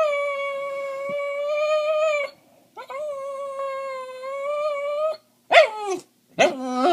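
Dog howling indoors: two long, steady howls, then two short howls that drop in pitch near the end.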